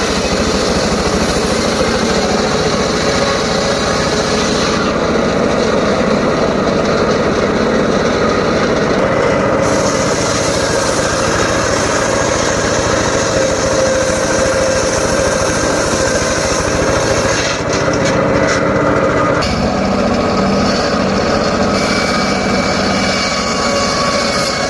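Homemade circular saw running steadily while cutting short teak logs. The pitch and tone of the sound shift a few times as the work goes on.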